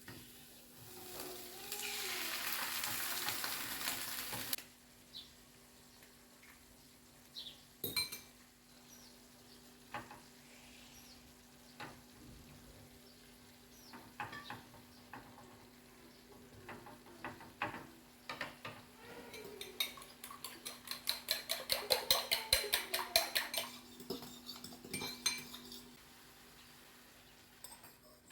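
Kitchen utensils clinking and knocking against dishes, with a hiss lasting a few seconds near the start. Later comes a run of rapid, regular scraping taps, about five a second: a utensil stirring briskly in a bowl.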